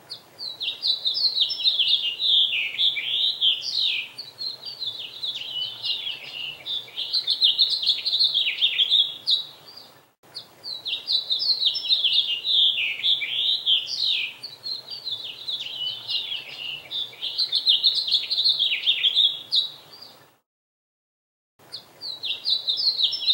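Small songbirds chirping and twittering in a dense, rapid stream of quick up-and-down notes. The sound cuts out abruptly for a moment about ten seconds in and again for about a second near the end.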